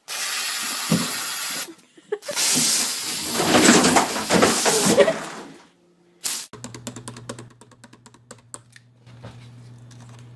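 A cat hissing in two long stretches. From about six and a half seconds in, a quieter steady low hum with scattered small clicks.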